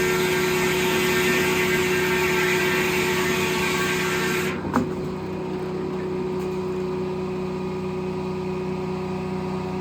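Circle sawmill driven by a Detroit Diesel engine, the big circular blade cutting through a log with the engine running under load. About four and a half seconds in the cut ends: the heavy cutting noise drops away and the engine and blade run on freely, with one sharp knock just after.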